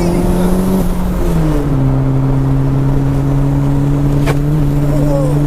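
Turbocharged Mini's engine running hard at steady revs. The revs rise slightly, drop about a second and a half in, then hold steady at a lower pitch. A single sharp click comes about four seconds in.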